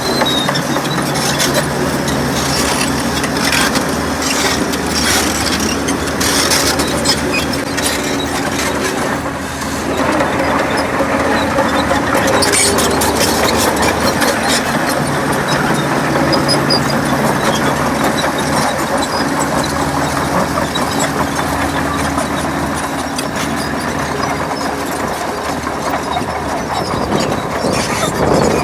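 Heavy diesel earthmoving machinery working: a steady engine drone with metallic clatter and squeaks over it. The sound dips briefly about ten seconds in.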